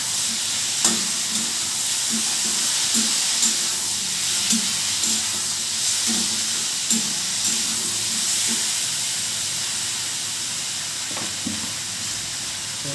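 Potato and aubergine sabzi sizzling in hot oil in a pan, a steady hiss, with a spoon knocking against the pan every second or so as it is stirred.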